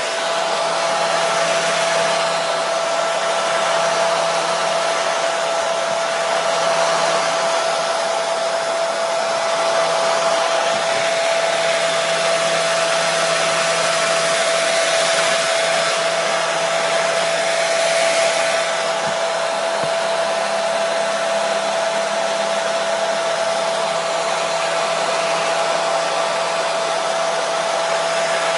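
Hair dryer running continuously: an even rushing of air with a steady whine, unchanging in level and pitch.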